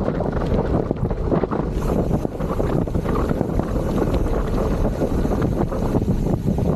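Wind buffeting the microphone of a camera on a moving gravel bike, with the tyres crunching and rattling over a gravel trail.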